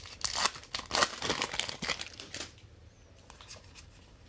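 Plastic wrapper of a football trading-card pack crinkling and tearing for about two and a half seconds, then only faint handling noises.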